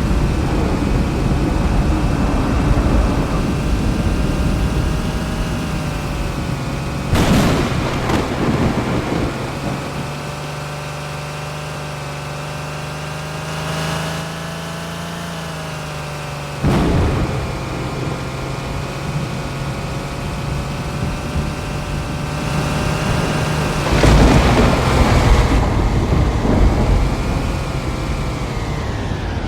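Thunder cracking and rumbling several times, loudest about seven seconds in, just after halfway and near the end, over a steady droning hum.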